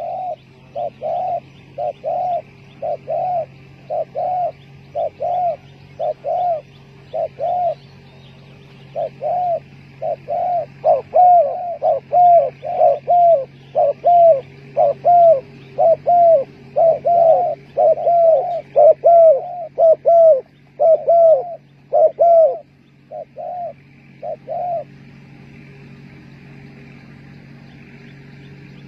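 Spotted dove cooing: a long run of short, arching coo notes, about two a second, that stops about 25 seconds in. A faint steady low hum runs underneath.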